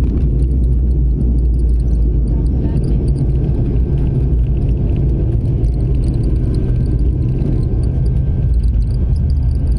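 Airliner cabin noise after touchdown: a loud, steady low rumble with a faint high whine above it.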